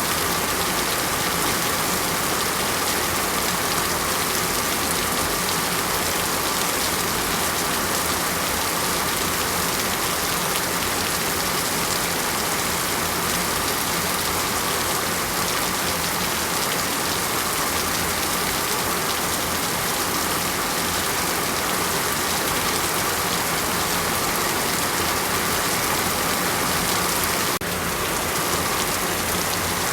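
Heavy rain falling steadily, an even, unbroken hiss of dense drops.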